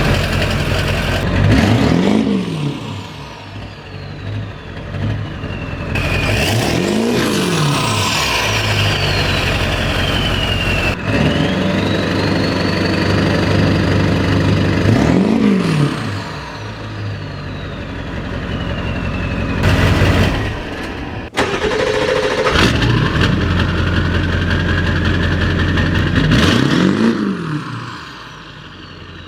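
Ford 7.3L Powerstroke V8 turbo-diesel idling and being revved four times, each rev rising and falling back to idle. A high turbo whistle falls away after the revs.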